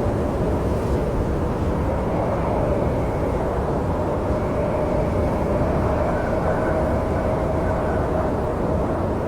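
Snowstorm wind blowing as a steady low rumble, with a faint wavering howl running through it.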